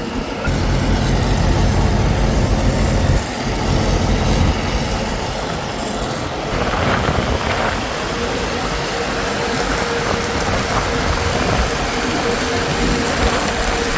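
An engine running steadily, strongest in the low end for the first few seconds, with a crackling hiss joining about six and a half seconds in.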